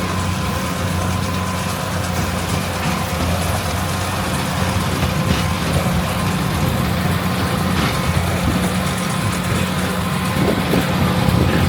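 Large diesel engine of farm harvesting machinery running steadily with an even low hum.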